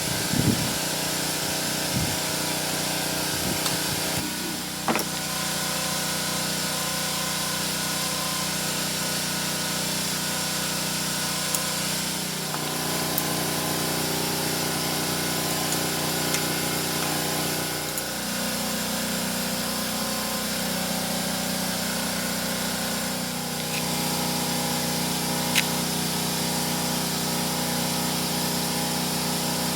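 A small engine or motor running steadily, its pitch shifting a few times, with a few light clicks early on.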